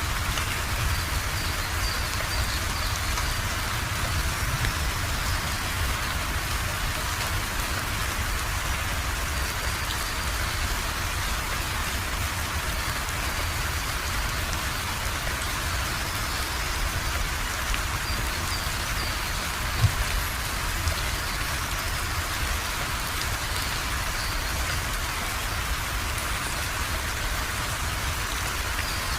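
Steady, even rainfall, with one sharp knock about two-thirds of the way through.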